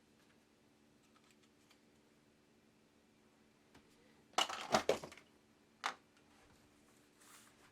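A short clatter of small hard objects, like hand tools being handled and set down on a workbench, about halfway through, then a single sharp click about a second later.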